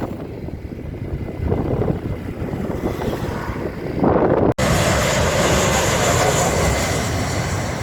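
An airliner passing, a continuous engine rumble that swells louder and brighter about four seconds in, with a brief dropout just after.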